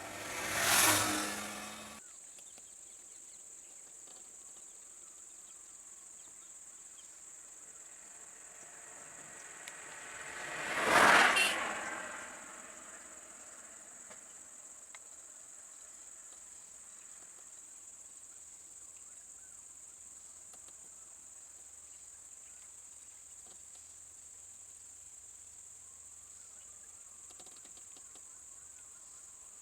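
A steady high-pitched insect chorus, with vehicles driving past twice: once at the very start and again about eleven seconds in, each swelling and fading over a couple of seconds.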